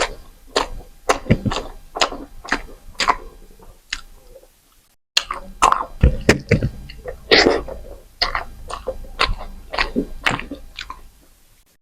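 Close-miked eating sounds: wet chewing and lip smacks of a mouthful of rice, dal and chicken, a few sharp smacks a second. There is a short break of total silence about halfway.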